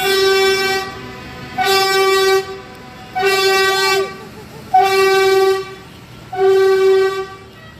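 A vehicle horn tooting in a steady series, five even blasts of one unchanging pitch, each under a second long and about a second and a half apart.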